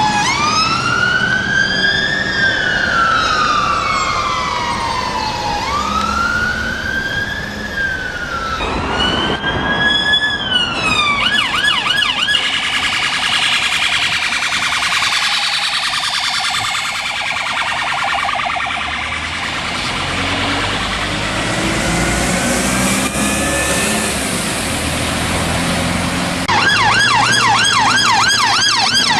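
Emergency vehicle sirens: a fire engine's siren in a slow rising-and-falling wail for the first eight seconds or so, then, after a cut, police car sirens in a rapid yelp, with the fast yelp coming back loud near the end.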